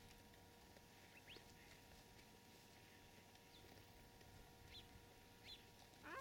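Near silence with a few faint, short rising bird chirps; a louder call starts right at the end.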